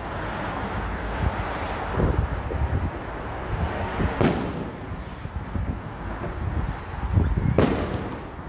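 Fireworks bursting overhead: a bang about two seconds in, then two louder booms about four and seven and a half seconds in.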